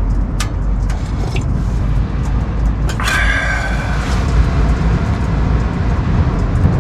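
Wood stove being loaded with split logs: a few knocks, then about three seconds in a sharp metallic clang that rings for about a second, over a steady low rumble.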